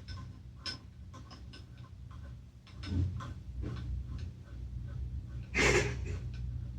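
Small metal parts and tools being handled: scattered light clicks and ticks, with a short louder rustling clatter a little before the end, over a steady low hum.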